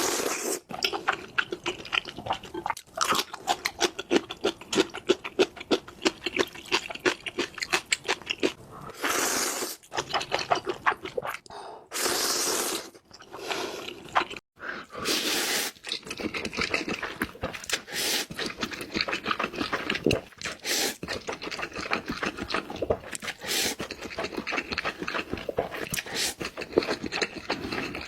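Close-miked eating of Buldak spicy ramen noodles: wet chewing and mouth smacking, with a few longer, noisier stretches about a second each.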